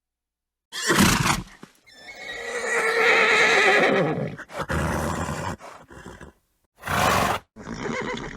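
A horse neighing: one long, wavering whinny about two seconds in, with short snorts before and after it.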